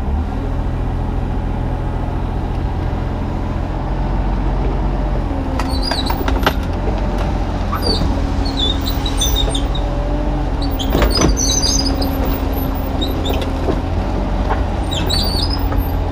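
Kubota U35-3 mini excavator's diesel engine running with the hydraulics working. A steady whine comes in about five seconds in, and there are a few sharp clanks around six and eleven seconds in.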